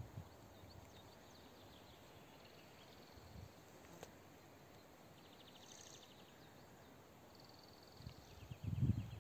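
Faint outdoor ambience with short, rapid, high-pitched chirping trills, and low rumbling bursts near the end.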